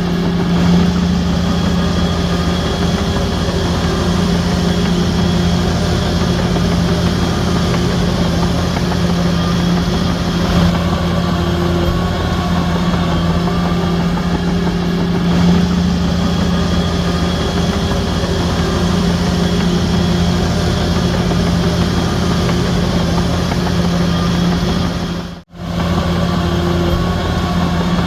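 Heavy diesel engine of a Shantui DH17C3 crawler bulldozer running steadily with a deep, even drone. The sound cuts out for an instant near the end, then resumes.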